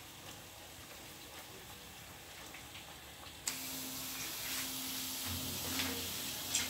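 Faint room tone at first, then, from about halfway, Jamaican fried dumplings (fry bakes) sizzling in a pan of hot oil, an even hiss with small crackles. A steady low hum joins it near the end.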